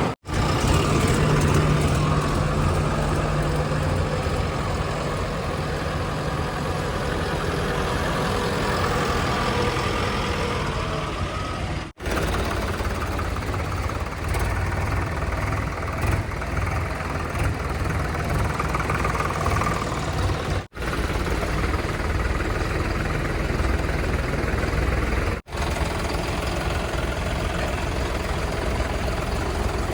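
Heavy diesel engines of a backhoe loader and trucks running steadily at a worksite, broken three times by abrupt, momentary dropouts where the clip is cut.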